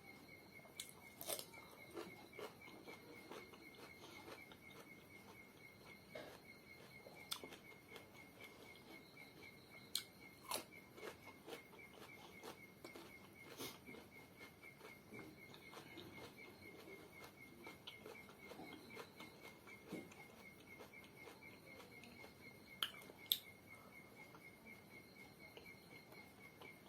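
Quiet eating sounds: soft chewing and a few sharp clicks, like a spoon against a plate or bowl, over a faint steady high-pitched tone with a fast flutter.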